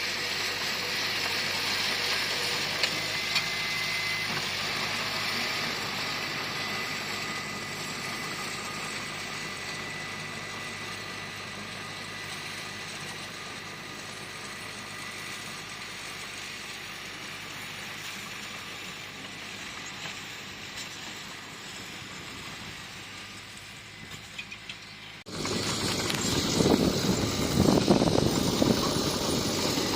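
Diesel engine of heavy earthmoving equipment running steadily. About 25 seconds in, the sound cuts abruptly to a louder, rougher engine sound.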